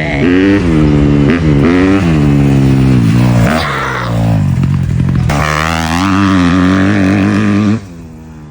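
Engine accelerating hard, its pitch climbing and dropping back several times as it shifts up through the gears, then holding steadier at top speed before cutting away suddenly near the end.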